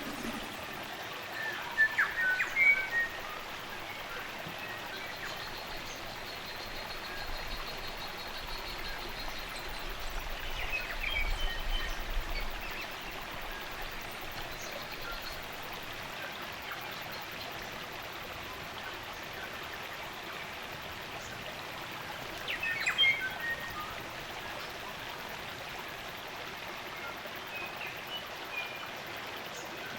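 A spring-fed stream running steadily, with New Zealand native forest birds calling in short bursts: about two seconds in, again around eleven seconds, and near twenty-three seconds.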